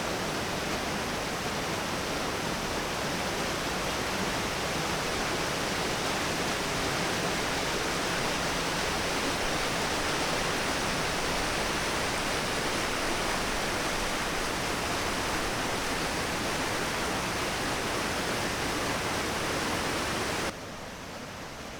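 Waterfall: a steady, dense rush of falling water that drops suddenly to a quieter rush near the end.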